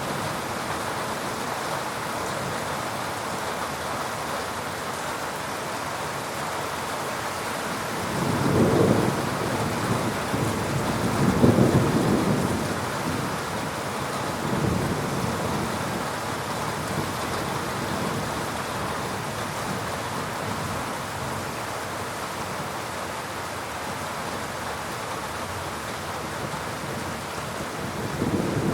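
Heavy rain falling steadily, with thunder rumbling about eight and eleven seconds in and again near the end.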